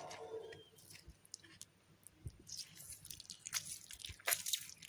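Hands squeezing lemons and working the marinade into raw fish: soft wet squelches and scattered small clicks, busier in the second half.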